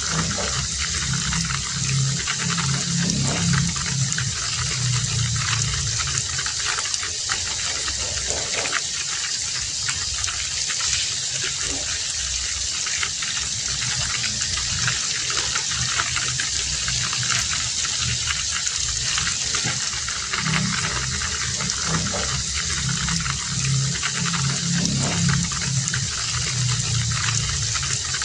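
Heavy rain falling steadily in a continuous hiss. A low, uneven pulsing sound comes in twice, at the start for about six seconds and again from about twenty seconds in to near the end.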